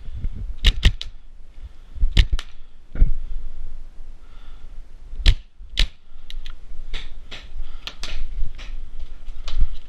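Paintball markers firing: sharp pops at irregular intervals, some in quick pairs.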